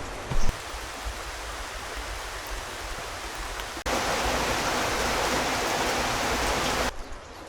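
Steady rain falling, a soft hiss with a brief low thump right at the start. About four seconds in, the sound jumps abruptly to a louder, brighter rush of falling water for about three seconds, then drops back just as abruptly near the end.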